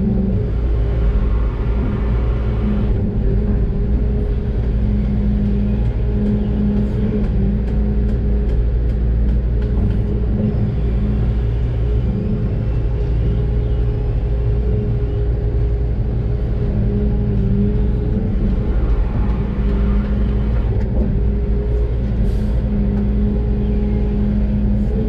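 Doosan DX600 excavator's diesel engine running steadily at working speed, heard from inside the cab, with a deep rumble and a few faint ticks along the way.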